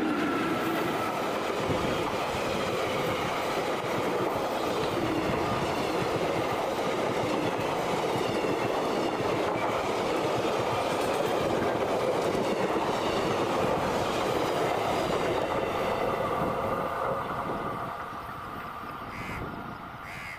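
A passenger train hauled by an Indian Railways WAP-4 electric locomotive runs past close by on a curve: a steady loud rumble and clatter of coach wheels on the rails. The sound fades over the last few seconds as the train draws away.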